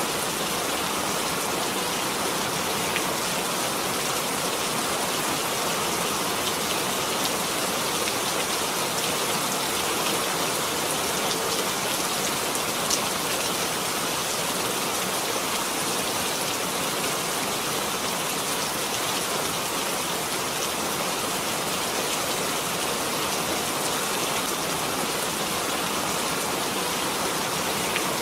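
Steady, even rain falling, a dense hiss of drops with faint scattered ticks of single drops.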